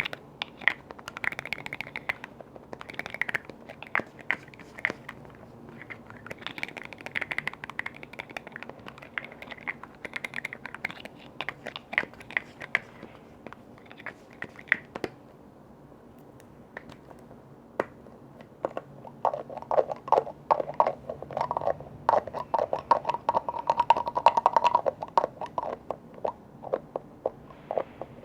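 Quick tapping and scratching on lids and containers. There is a short lull about halfway through, then a denser, lower-sounding run of taps.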